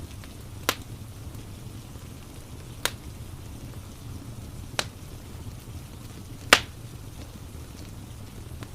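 Wood fire crackling in a fireplace: four sharp pops about two seconds apart, the last the loudest, over a steady hiss of rain.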